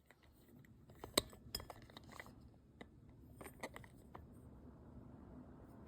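A few light clinks and clicks, like glass or tableware being handled, the loudest about a second in, over a faint steady hum.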